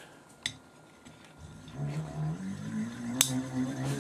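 A hand-cranked ceiling fan alternator spinning up, a hum that starts about a second and a half in and rises slightly in pitch and loudness as it turns faster. There is a click near the start and a sharp click near the end.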